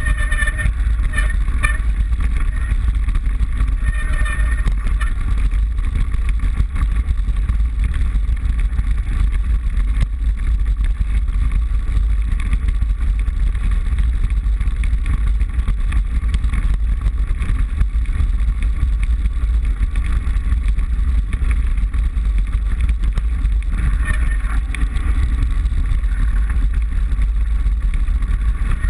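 Steady, loud low rumble of wind and ride vibration picked up by a handlebar-mounted GoPro on a mountain bike being ridden, with fainter higher rattling that comes and goes near the start and again near the end.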